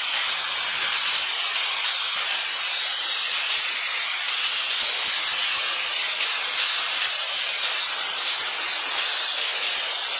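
A steady, even hiss that does not let up, strongest in the upper range.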